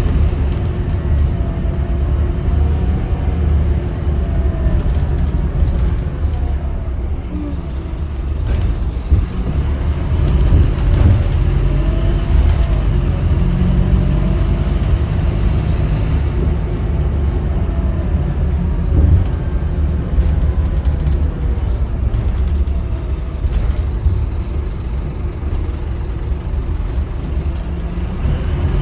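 Scania K310UB city bus running, with a steady low engine rumble and a whine that rises and falls as the bus changes speed.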